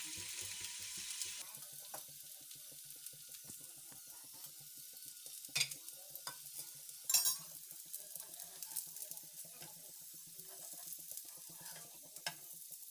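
Oil sizzling under stuffed wheat-flour dough snacks frying on a flat griddle (tawa) over low heat, louder for the first second or so and then softer. A few sharp taps of a metal spatula against the pan come about halfway through and near the end, as a snack is turned over.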